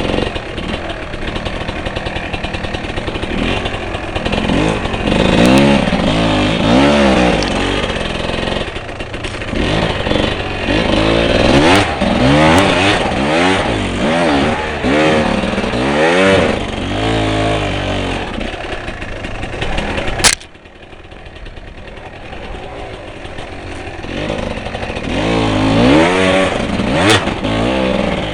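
Off-road motorcycle engine revved hard in repeated bursts, its pitch rising and falling with each blip of the throttle. About twenty seconds in the sound cuts off abruptly to a quieter engine, which revs up again near the end.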